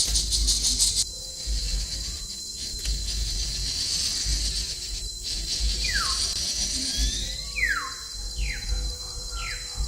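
Insects chirring loudly with a fast pulsing trill for the first second, over a steady high insect whine. From about six seconds, a bird gives a series of four or five short whistled calls, each sliding quickly down in pitch.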